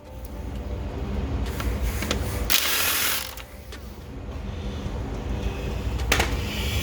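Hand-tool work on an ATV: ratchet clicking and metal clatter, with a louder burst of noise about two and a half seconds in and a sharp click near the end.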